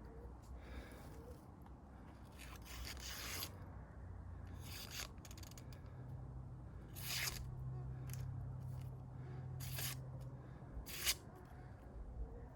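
Knife blade scraping and slicing wood in irregular strokes, about six in all, each a fraction of a second long.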